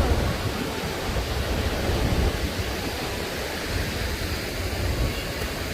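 Steady roar of Niagara Falls' falling water, with an uneven low rumble underneath.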